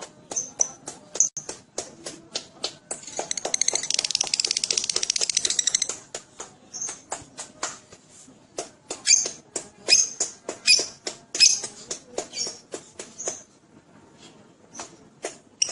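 Lovebird chattering in sharp, rapid chirps. From about three to six seconds in it runs into a fast continuous trill, the long 'ngekek' chatter, and near the end it goes quieter.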